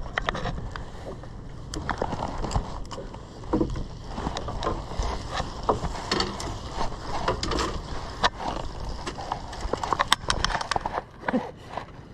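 Irregular knocks, clicks and clatter of handling on a small boat's deck, over a steady low rumble of wind and sea.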